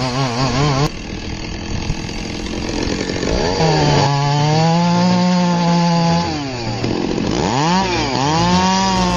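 Chainsaw running and cutting, its engine pitch falling as the throttle is eased off and climbing back to a steady high pitch twice when the throttle is opened again.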